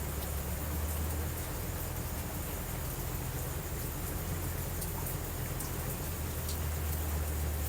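Steady rain falling, under a continuous low rumble that eases for most of the middle and swells again near the end. A few faint, sharp clicks sit on top.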